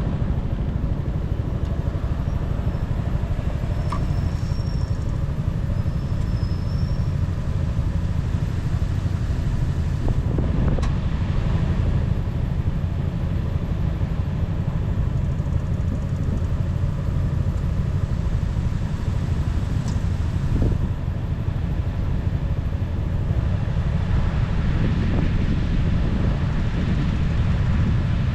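Motorcycle engine running at road speed with wind on the microphone, the low rumble holding steady and swelling briefly about ten seconds in and again near twenty seconds.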